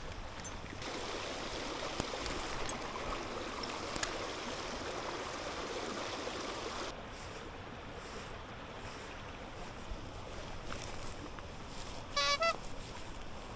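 Mountain stream water rushing steadily, with a few light clicks and a brief pitched two-part chirp near the end.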